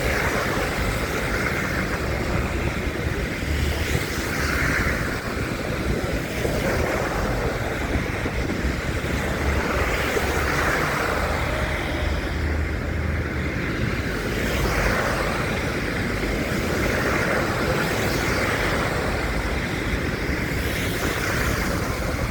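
Steady roar of wind buffeting a phone microphone, with road traffic noise beneath that swells now and then.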